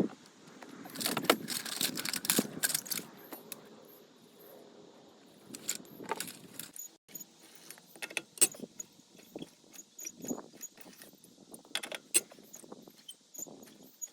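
Metal clinking and rattling from hand tools and loose metal parts being handled, with a dense run of clicks in the first few seconds and scattered sharp clicks after.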